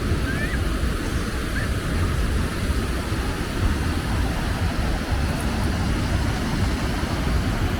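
Steady low rumble of beach ambience, surf and wind, with a few faint short rising chirps in the first couple of seconds.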